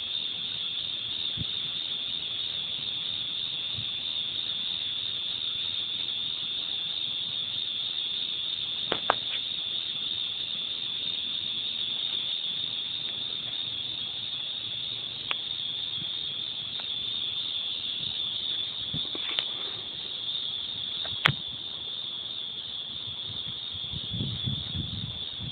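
A continuous high-pitched trill, the kind calling insects make, holding steady without a break, with a few sharp clicks over it.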